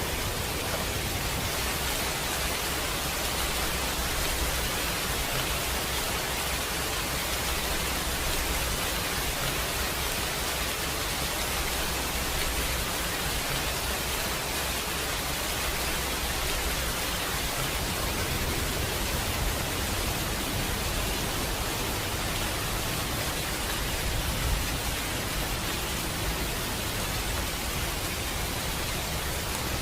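Steady rain falling, an even unbroken hiss with one brief louder tap about three-quarters of the way through.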